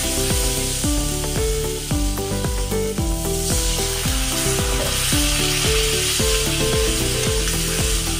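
Tomato and spice masala sizzling in hot oil in a kadai while a steel spatula stirs and scrapes it. The sizzle grows louder about three and a half seconds in, as a little hot water goes into the hot pan. Background music with a steady beat plays underneath.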